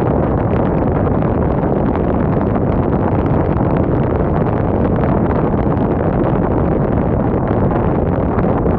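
Wind blowing steadily, an even rush of noise heavy in the low end, with wind buffeting the microphone.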